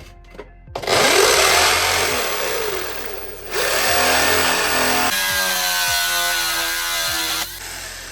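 Corded power drill boring a hole through wall tile. It starts about a second in with the motor speed rising and falling, eases off briefly midway, then runs on with a steady whine before stopping near the end.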